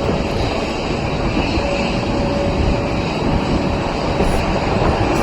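Jet engines of an Airbus A330-300 airliner, a loud, steady rumble with a faint steady whine.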